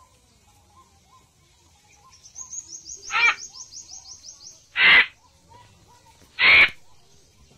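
Birds calling in the trees: a faint short chirp repeated over and over, a fast high trill from about two seconds in, and three short loud harsh calls about a second and a half apart in the second half, the last two the loudest.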